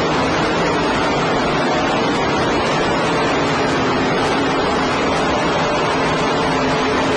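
Race cars' engines running flat out on the track, heard through a badly overloaded recording as a loud, steady wash of distorted noise with faint engine tones under it.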